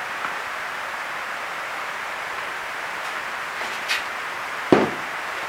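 Steady background hiss, with a single sharp knock about three-quarters of the way through, like a hard wooden piece being set down or bumped.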